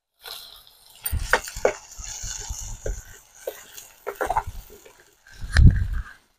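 Ground tomato sizzling as it hits hot oil and fried onions in a clay pot, while a steel ladle stirs it in with scattered clicks and knocks against the pot. There is a low thump near the end.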